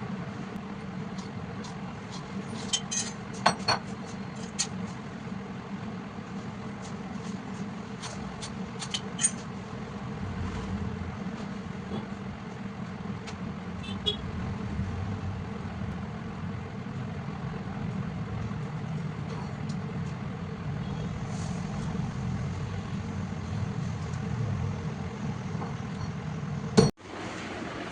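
Shop machinery, likely a milling machine, running with a steady hum and scattered light metallic clinks, a cluster of them about three seconds in and more around nine seconds. Near the end there is one sharp click and the sound cuts out for a moment.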